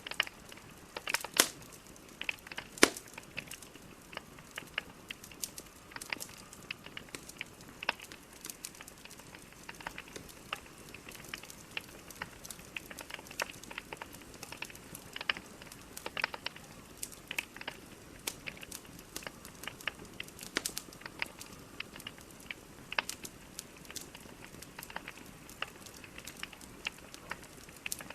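Burning logs in a fireplace crackling, with many irregular sharp pops over a soft steady hiss. Two louder pops come about one and a half and three seconds in.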